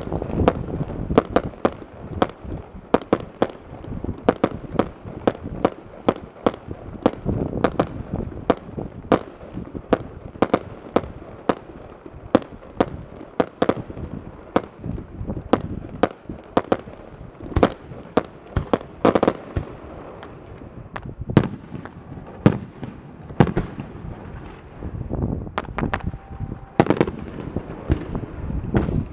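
Aerial firework shells bursting in a dense, irregular barrage, sharp bangs about two a second.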